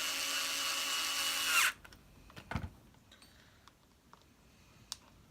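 A power drill-driver runs in one steady burst of about a second and a half, then cuts off. A thump and a light click follow.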